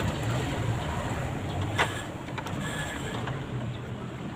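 Steady background rumble, like distant traffic, with one sharp click about two seconds in and a few faint ticks.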